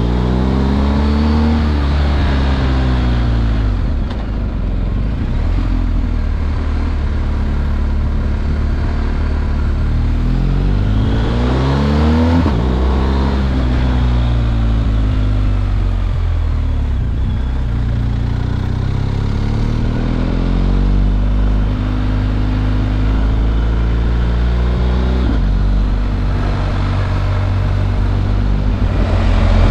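BMW R1250 GS Adventure's boxer twin on its stock exhaust, its pitch climbing and falling several times as the engine pulls up and eases off, with a sudden drop in pitch about twelve seconds in.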